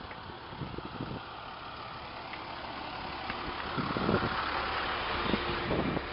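Car engine and road noise, growing louder about four seconds in, with a few short low thumps.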